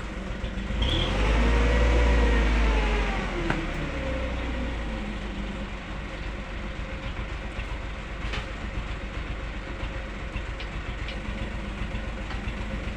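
A motor vehicle passes close by, its rumble swelling and fading over the first few seconds, followed by a steady background of traffic noise with a few faint clicks.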